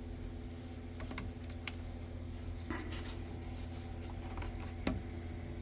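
Faint scattered clicks and light taps from handling a photo book, over a steady low hum; the sharpest click comes near the end.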